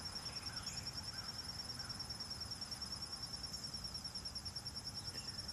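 Cricket chirping in a steady, high, rapidly pulsing trill over a low background rumble.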